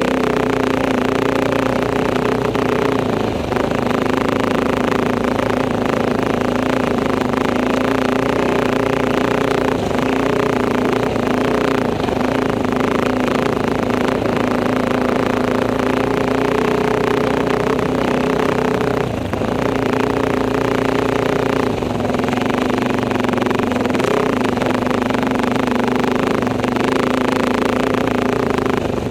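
Enduro motorcycle engine running steadily as the bike rides along, its pitch holding fairly even with a couple of brief dips, as when easing off the throttle.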